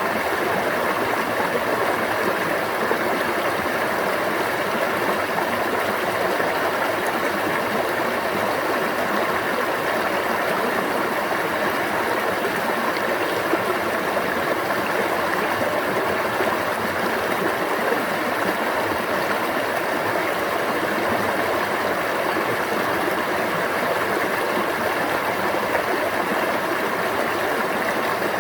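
Water flowing down a stream, a steady rushing babble.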